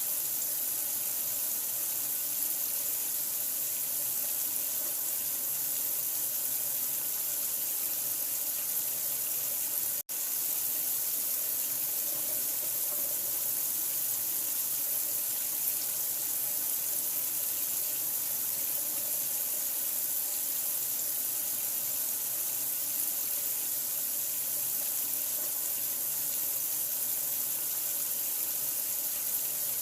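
Steady rush of running water, the hiss strongest in the high range, with a split-second break about ten seconds in.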